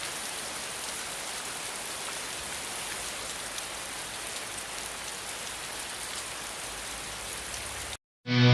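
Steady, even hiss of noise with faint scattered ticks that cuts off suddenly about eight seconds in. Loud music with distorted electric guitar starts right after.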